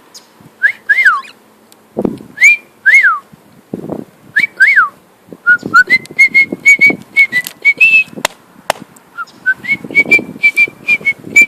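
Cockatiel whistling: a few rising-and-falling whistle notes, then quick runs of short notes held on nearly one pitch. A few soft low scuffling noises come between the notes.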